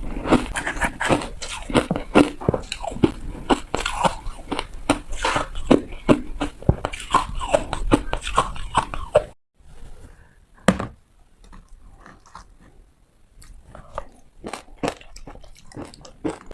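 Close-up crunching of ice as it is bitten and chewed: a fast run of sharp cracks. About nine seconds in it cuts off abruptly, then comes a single loud crack, and after it sparser, quieter crunches.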